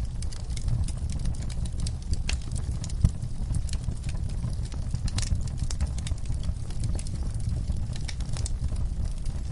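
Wood fire in a fireplace crackling: irregular sharp pops and snaps over a steady low rumble of the flames, with one louder pop about three seconds in.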